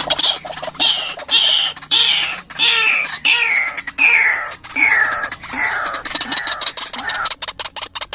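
White-breasted waterhen giving its repeated harsh croaking call. Each note falls steeply in pitch, about one a second, coming a little faster toward the end.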